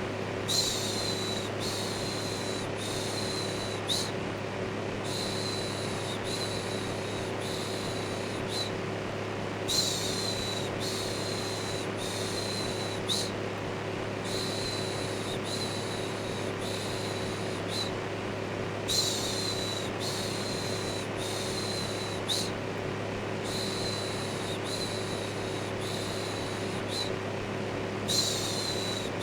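Electric fan running steadily with a low hum, overlaid with a repeated "shhh" shushing sound in short strokes of under a second each, broken by a brief pause every few seconds.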